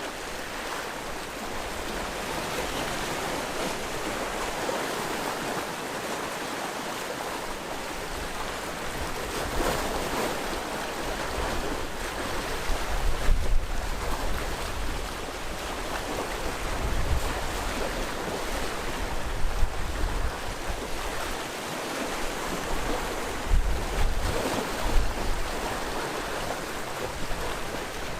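Sea waves breaking and washing on a rocky shore, a steady surf that swells every few seconds, with wind buffeting the microphone in low rumbles during the louder surges.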